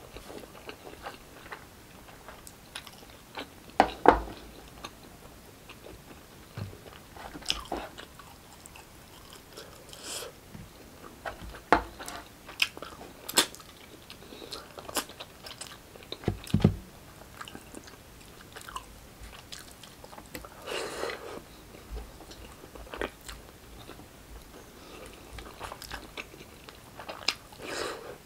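Close-up eating sounds: a person chewing and biting braised pork hock and rice, with irregular mouth clicks, the loudest about four seconds in and again about sixteen seconds in.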